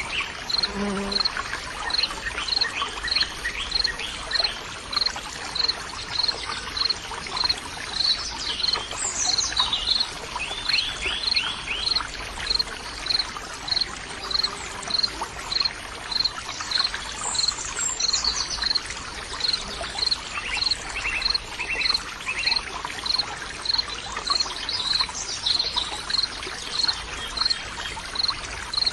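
Nature ambience: water trickling steadily, with an insect chirping at an even pace, about three chirps every two seconds. Birds call now and then over it, with quick trills and short falling whistles.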